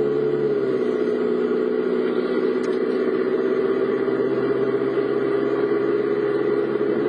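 Car engine running at a steady speed, a constant drone with road noise, heard from inside the moving car.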